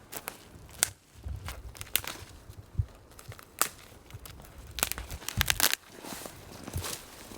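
Irregular crunching and crackling: a dozen or so sharp cracks at uneven intervals, with dull low thumps between them.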